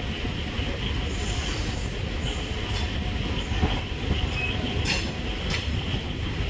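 Passenger train running on the track, heard at an open coach window: a steady rumble of wheels on rails, with several brief high hissing squeals and clicks from the wheels.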